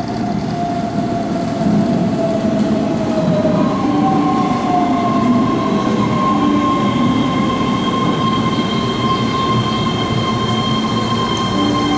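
Keihan electric train running at a station platform: a whine that falls in pitch over the first few seconds, then a steady high squeal joining about four seconds in, over continuous running rumble.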